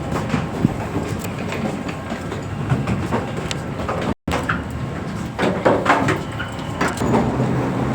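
Moving train heard from the inside: a steady running rumble with scattered clicks and knocks. The sound cuts out completely for a moment about four seconds in.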